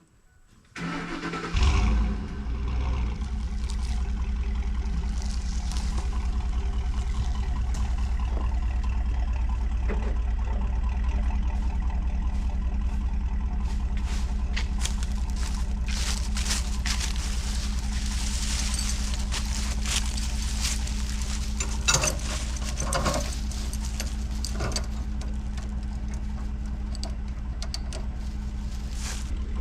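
An engine starts about a second in, then runs steadily at idle. Scattered clicks and knocks sound over it in the second half.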